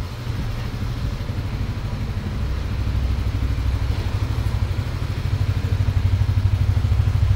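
Honda motorcycle engine running steadily with a low, even pulse, a little louder over the second half.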